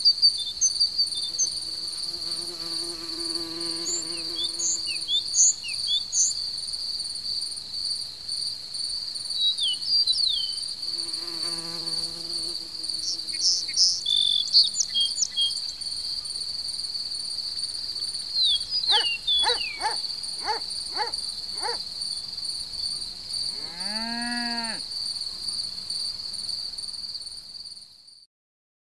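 Crickets chirring in one steady high-pitched trill, with scattered bird chirps and low insect buzzing twice. Near the end there is a short rising-then-falling call, and then the sound fades out.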